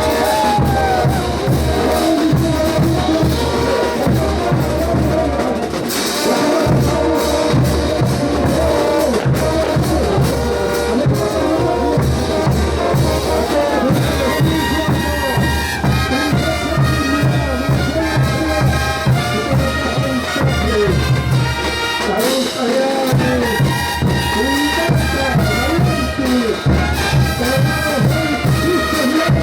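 Bolivian brass band playing a ch'uta dance tune: trumpets and trombones over a steady bass-drum beat. The drums drop out for a moment about three-quarters of the way through, then come back in.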